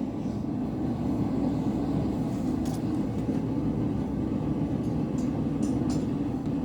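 Gas forge burner running with a steady low roar, which the smith reads as a sign that the forge is running low on gas. A few faint metallic ticks sound over it, about midway and near the end.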